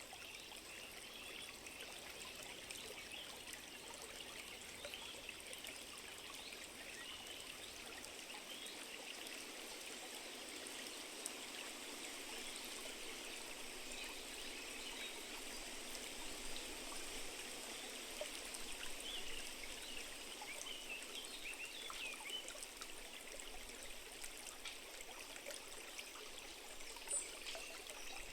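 A small stream trickling and babbling steadily, with fine splashy flickers over the flow. A brief high chirp sounds near the end.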